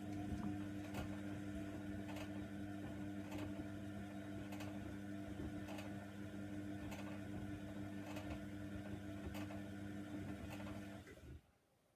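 Hoover Nextra washer dryer running a steady electric hum, with faint regular ticks about once a second, then cutting off suddenly about 11 seconds in.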